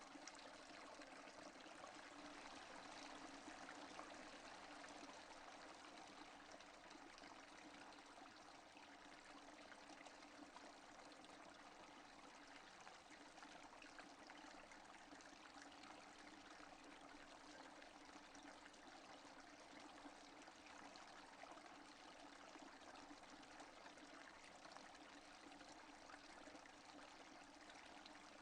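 Faint, steady rain falling, an even hiss of many drops with no single louder event.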